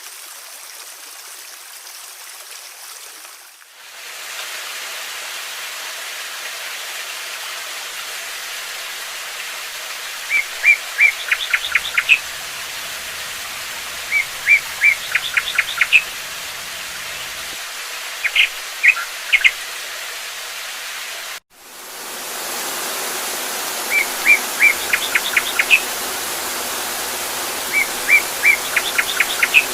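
Steady rushing water, like a waterfall or stream, with a songbird repeating a short chirping phrase about every four seconds: a few even notes and then a quick trill. The water sound cuts out abruptly twice and comes back louder each time.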